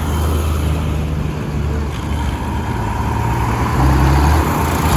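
Diesel engine of a modern tractor running, with a faint high whine over the low engine note; the engine note shifts in pitch about four seconds in.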